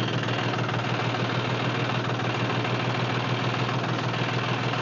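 Diesel tractor engine idling steadily with an even, rapid low pulse.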